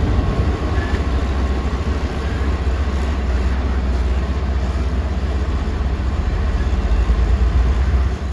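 Diesel engine of a heavy earthmoving machine running steadily under work, a loud, continuous deep rumble.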